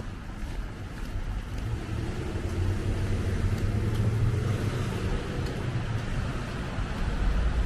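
A car driving past, its engine and tyres growing louder and then easing off.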